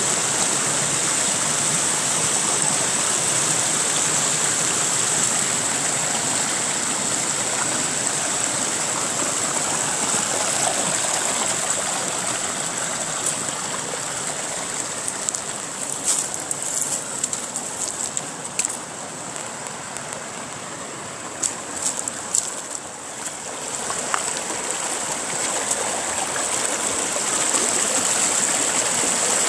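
Mountain stream rushing over rocks, a steady wash of water. It eases a little in the middle, where a few short sharp clicks or splashes stand out, then comes back up.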